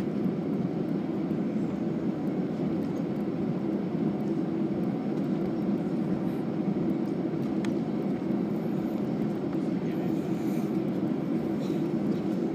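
Steady low rumble in the cabin of an Airbus A320 on the ground after landing, engines at idle, with a faint steady hum.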